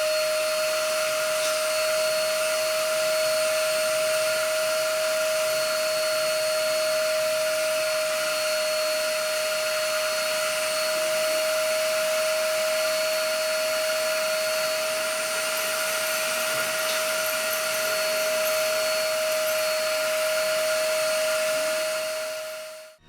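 MASKO 1000 W ash vacuum cleaner running steadily, its motor giving a constant rushing noise with a steady whine, which cuts off near the end.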